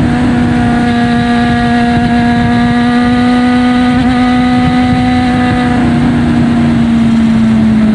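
Honda CB400 Super Bol D'or's inline-four engine through a Yoshimura titanium 4-1 full exhaust, held at steady raised revs, with the pitch easing down a little about six seconds in.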